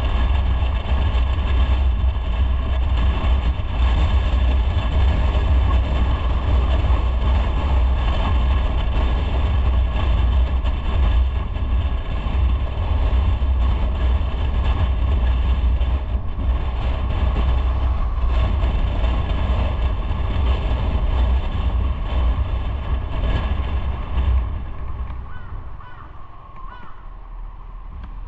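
Motorcycle on the move: steady engine and road noise with heavy wind rumble on the microphone, which eases off about four seconds before the end.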